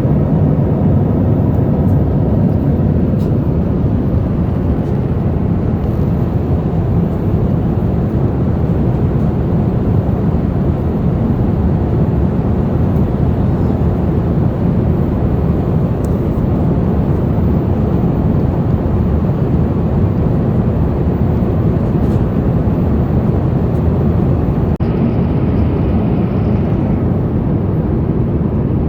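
Steady roar of a jet airliner heard from inside the cabin, a deep, even rush of engine and air noise. The higher hiss thins out a little near the end.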